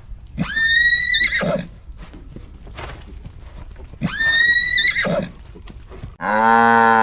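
A horse neighs twice, each a high, shaking whinny that falls in pitch, about four seconds apart. Near the end a cow starts a long, low moo.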